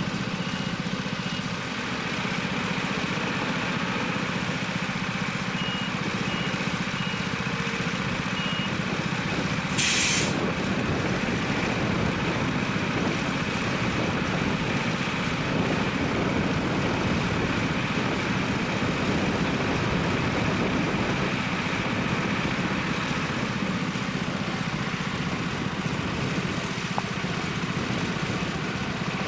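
Isuzu FSR 700 hi-rail truck's diesel engine idling steadily, with its reversing alarm sending out short runs of high beeps at the start and again around six to eight seconds in. About ten seconds in there is a short, loud hiss of released air from the truck's air system.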